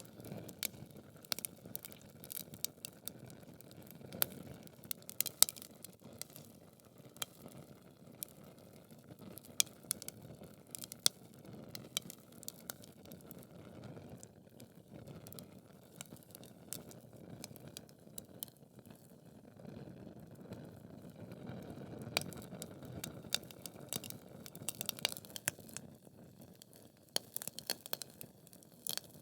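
Wood fire in a fireplace: logs crackling with frequent sharp irregular pops over a steady low rush of flame.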